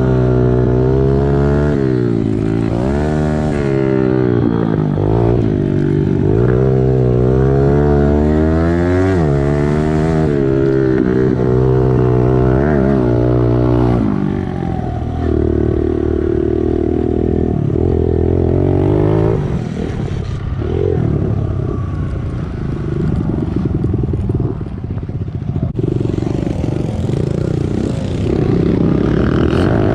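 Small single-cylinder four-stroke pit bike engine, its revs climbing and dropping over and over as the bike accelerates and slows through the turns. About halfway through the revs settle lower and steadier, with a choppy, uneven beat.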